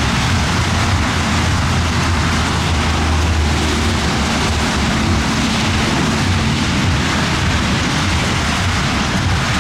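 Heavy thunderstorm rain falling steadily, an even hiss, with a low rumble underneath and a faint hum that fades out about two-thirds of the way through.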